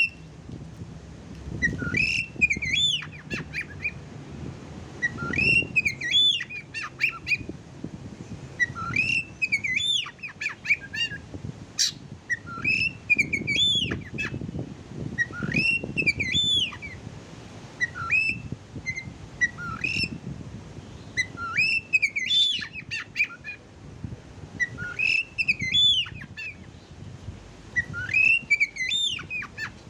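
Oriental magpie-robin (kacer) song: short phrases of quick, sweeping whistled notes, rising and falling, repeated about every three to four seconds.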